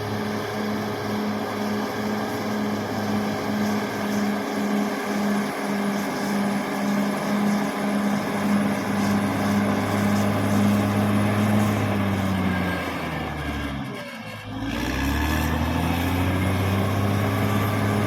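Caterpillar D6R XL bulldozer's diesel engine running steadily under load. About 13 seconds in, its pitch falls and the sound dips briefly. It then rises again and runs steady to the end.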